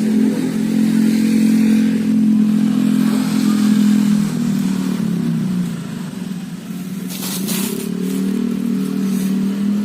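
A vehicle engine running steadily close by, its pitch sagging a little about halfway through and then picking up again. A brief scraping hiss comes about seven seconds in.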